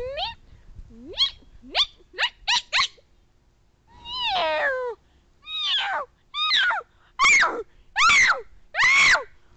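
Cat meowing over and over: first a quick run of about five short chirps, then six longer meows, each falling in pitch, coming about one a second.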